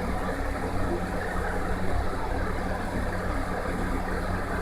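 A steady low engine hum, like an idling motor vehicle, under general street noise.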